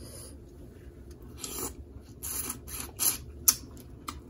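Head-on shrimp being pulled apart and peeled by hand: a handful of short, crisp crackling and scraping bursts of shell, one sharp snap about three and a half seconds in.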